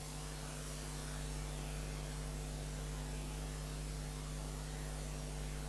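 Steady electrical mains hum with a faint hiss underneath: the background tone of the recording.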